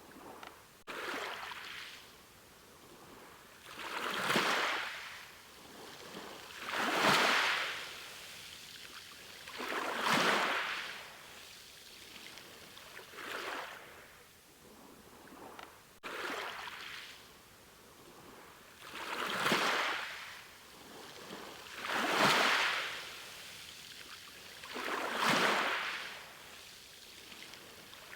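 Ocean waves washing in, a rushing surge that swells and fades about every three seconds, nine or ten times in a row.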